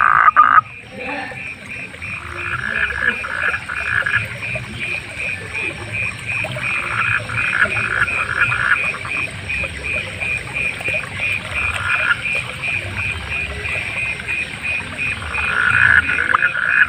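A frog chorus. One frog keeps up a steady pulsing call about four times a second, while others break in with quick rattling bouts of croaks, each a second or two long, four times over. A steady high hiss runs underneath, and there is a brief loud knock right at the start.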